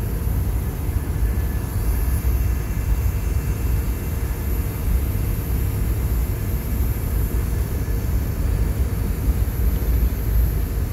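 Freight train of boxcars rolling past: a steady, loud low rumble of wheels on the rails with no pauses or sudden events.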